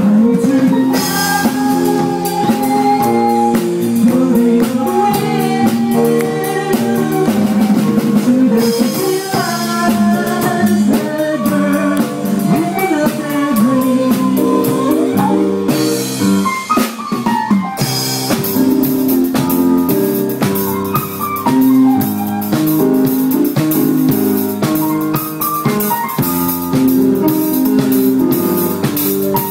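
Live band music: a violin melody with slides over keyboard chords, with a drum kit keeping the beat. The cymbals drop out briefly past the middle, then the full beat returns.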